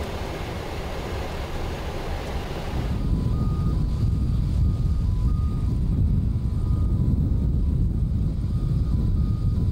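Boeing 777-200 in flight on approach, heard from the flight deck: a steady rush of airflow and engine noise. About three seconds in, the high hiss falls away and a deeper rumble gets louder, with faint short high tones coming and going.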